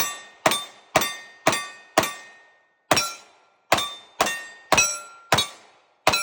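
Rapid pistol fire at steel targets, about eleven shots roughly half a second apart with one short pause a little after two seconds in. Each shot is followed by the ringing clang of a struck steel plate. The pitch of the ring changes partway through as different plates are hit.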